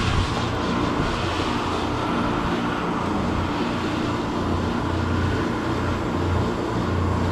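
A large engine running steadily, a low hum that swells and fades every second or so over a noisy background.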